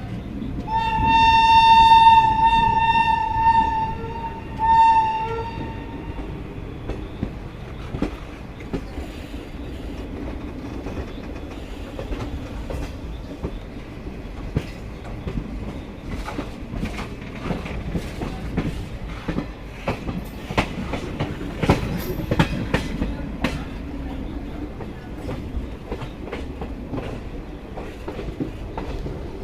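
Train horn sounding one long blast and then a short one, followed by the passenger train's wheels clicking and knocking over rail joints as it runs on. Heard from on board the moving train.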